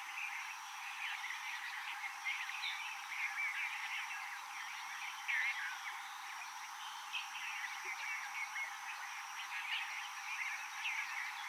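Rainforest wildlife chorus: many overlapping high chirps and short gliding whistles, dense and unbroken, over a faint steady high tone.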